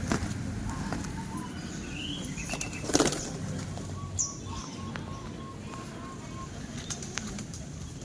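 Domestic pigeons' wings flapping, with a louder flurry about three seconds in.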